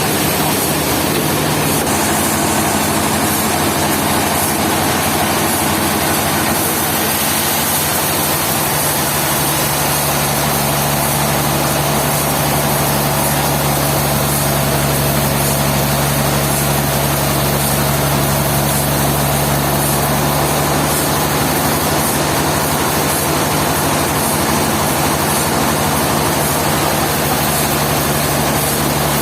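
A machine engine running steadily at a constant pitch, a low hum under a dense hiss, growing a little fuller in the bass about a third of the way in.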